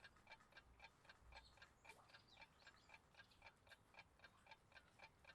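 Clock ticking faintly and evenly, about four ticks a second.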